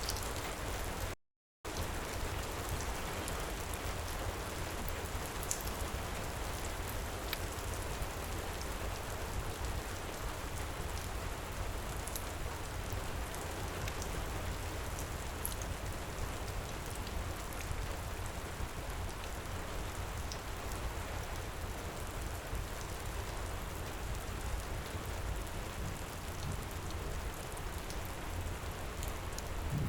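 Steady heavy rain pouring, with faint scattered crackles of a wood fire in a fireplace. The sound cuts out completely for a moment about a second in.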